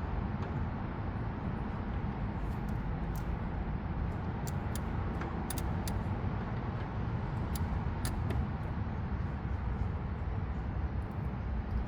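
Steady low rumble with a dozen or so sharp, irregular clicks, from a socket and wrench being fitted and worked on a radiator fan temperature sensor.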